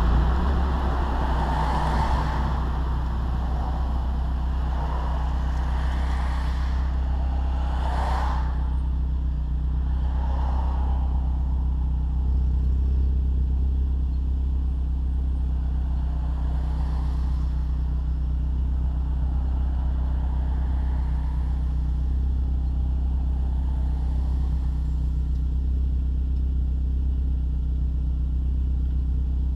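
Turbocharged 1.8-litre inline-four of a VW Passat 1.8T running at a steady engine speed through a Magnaflow glass pack and Borla Pro XS muffler, giving a low, even exhaust drone. A few whooshes swell and fade in the first ten seconds.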